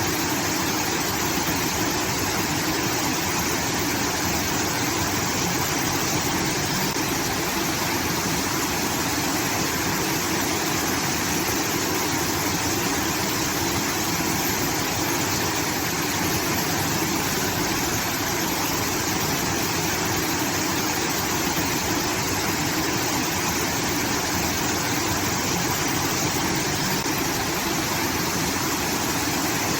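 Water from a rice-field irrigation outlet pouring and rushing steadily, much like a small waterfall.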